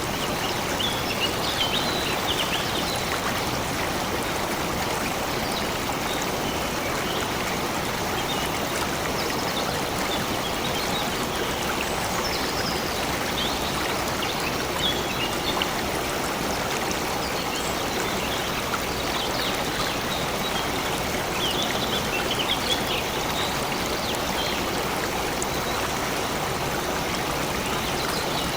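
Stream water flowing steadily, with faint bird chirps here and there, a few in the first seconds and a cluster about two-thirds of the way through.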